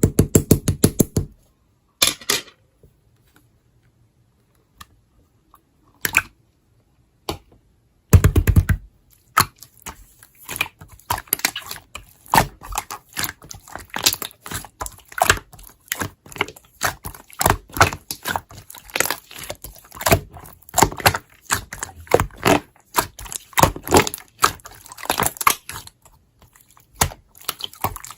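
Rapid, irregular clicking and tapping, dense from about nine seconds in, after a stretch of near silence broken by a few single clicks.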